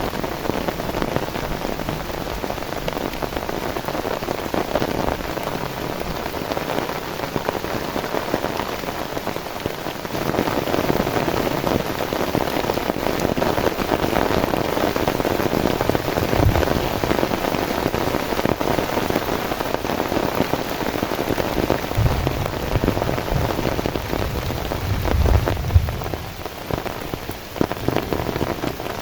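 Heavy rain falling steadily, dense with the pattering of individual drops on a surface, growing louder about ten seconds in. Low rumbles come in briefly past the middle and again for a few seconds near the end.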